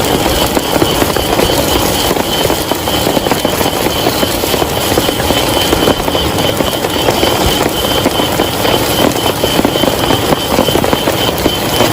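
Heavy rain falling steadily, a dense, even wash of drops.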